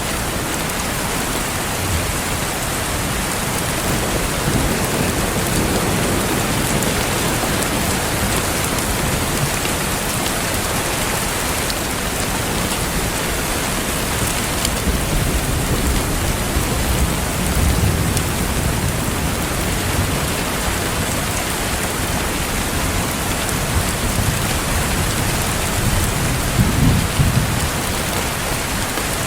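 Steady heavy rain, an even hiss with no gaps, with a few low rumbling swells rising and fading under it.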